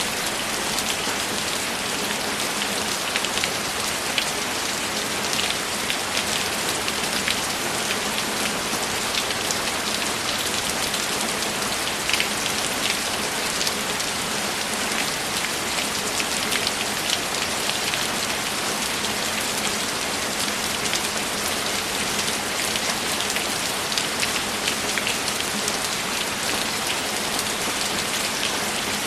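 Steady rain falling, a dense even hiss with many separate drops ticking through it.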